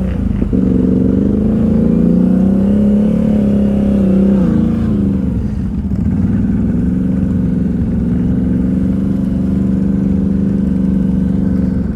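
ATV engine running, its pitch rising and falling over the first few seconds, dropping about five seconds in, then holding nearly steady over a constant low rumble.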